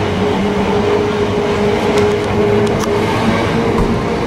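Southern Class 455 third-rail electric multiple unit running past along the platform: a steady hum over wheel and rail noise, with a few sharp clicks about two to three seconds in.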